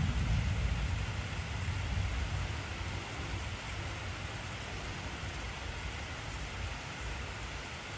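Heavy rain falling steadily, with a low rumble of thunder that dies away over the first several seconds.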